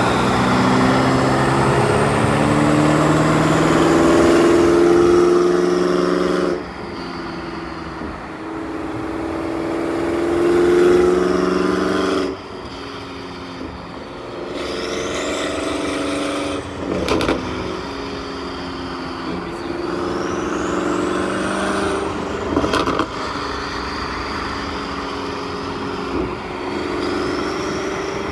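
2023 BMW M5 Competition's twin-turbo V8, breathing through catless downpipes and an M Performance exhaust, pulling hard twice with the engine note climbing and cutting off sharply as it lifts, about six and twelve seconds in. It then runs at a lower, steadier cruise, with a high whine rising and falling and a couple of sharp cracks.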